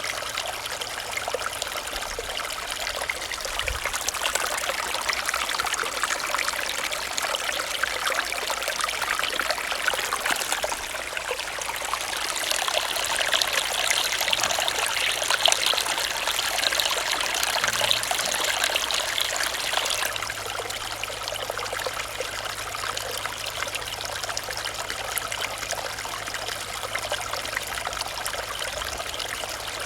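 A small stream running, its water trickling and babbling with a steady hiss. It swells somewhat louder for several seconds in the middle, then settles back.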